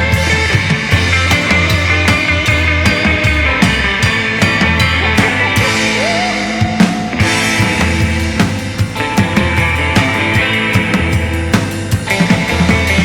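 Surf rock song played by a rock band, with a drum kit keeping a steady beat.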